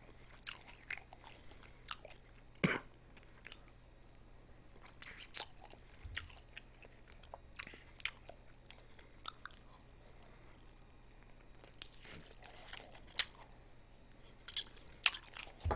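A person chewing and biting chicken pieces held in the hand, close to the microphone. Irregular soft smacks, clicks and crunches, with one louder crunch about two and a half seconds in.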